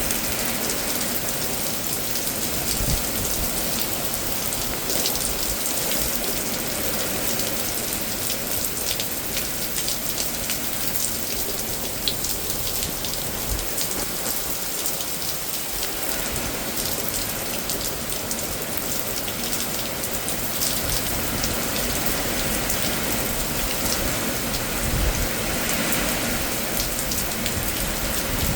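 Heavy rain falling steadily in a severe thunderstorm, with many small drop ticks and a few brief low rumbles, the strongest about 25 seconds in.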